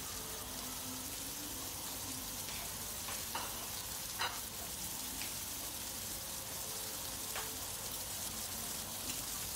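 Skewered marinated prawns frying in mustard oil in a flat pan: a steady sizzle, with a few scattered pops of spitting oil.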